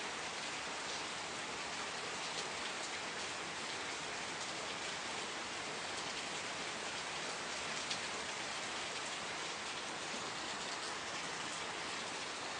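Steady rain falling, an even hiss with the occasional distinct drop tick.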